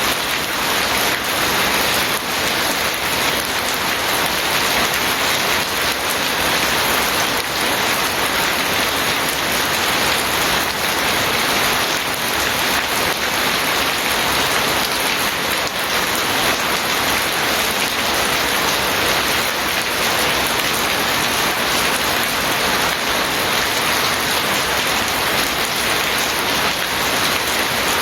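Steady heavy rain falling on surfaces, a dense, even hiss with faint individual drop ticks.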